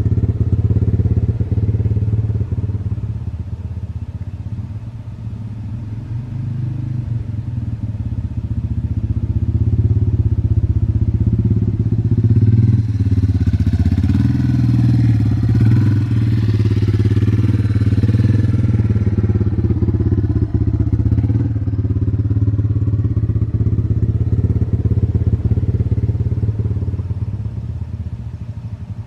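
Yamaha TTR230 dirt bike's single-cylinder four-stroke engine running as the bike is ridden around, growing louder and brighter for several seconds in the middle, then easing off.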